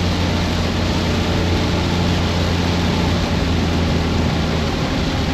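BMW F82 M4's twin-turbo inline-six running at a steady engine speed, heard from inside the cabin, over a constant hiss of heavy rain and tyre spray through the open driver's window.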